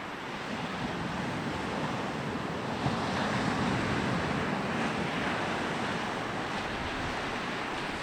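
Small sea waves breaking and washing up a beach, the surf swelling louder about three seconds in as a wave comes ashore, then easing.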